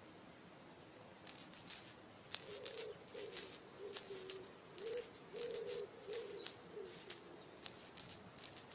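A rhythmic jingling rattle, like a shaken rattle or small bells, about two shakes a second, over a faint wavering low tone.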